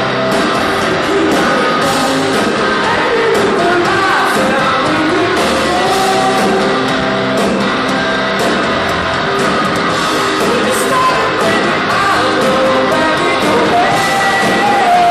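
Rock band playing live, with a lead vocal singing a melody over guitars and drums, the sound carrying the echo of a large hall.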